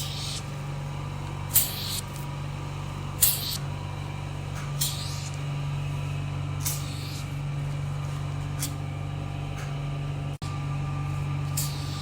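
Vacuum RF beauty machine's suction pump hums steadily, with a short hiss of air about every one and a half to two seconds as the handle's suction pulses on and off.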